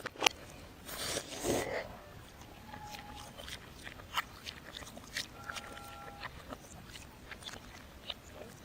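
Close-miked eating sounds played in reverse: scattered clicks and crunchy mouth noises from chewing, with a longer noisy burst about a second in.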